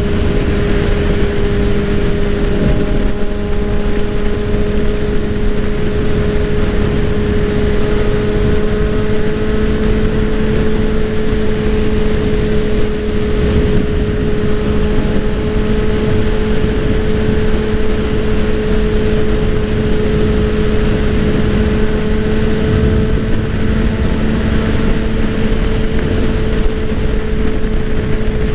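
Honda CBR650R's inline-four engine holding a steady high note at cruising speed, with dense wind noise over it.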